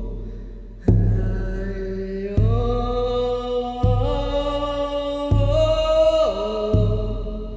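Wordless chanting voice holding long notes that step up and down in pitch, over a deep drum struck steadily about every second and a half.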